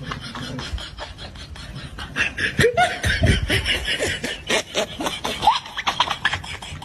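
People laughing, getting louder from about two seconds in.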